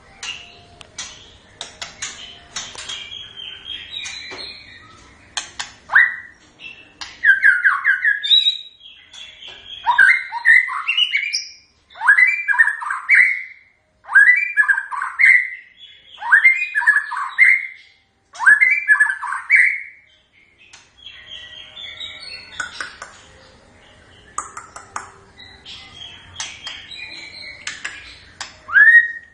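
White-rumped shama singing: a varied run of quick whistles and chattering notes, then about five loud, matching whistled phrases repeated roughly every two seconds, before it goes back to quicker, softer varied notes near the end.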